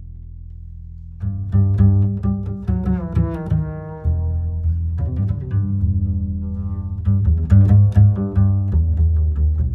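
Slow, relaxing guitar music: plucked notes with deep bass notes beneath, picking up about a second in.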